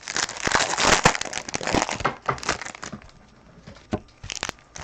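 Plastic wrapping crinkling and tearing as a sealed pack of trading cards is opened, dense crackling for the first two seconds or so, then a few more crackles near the end.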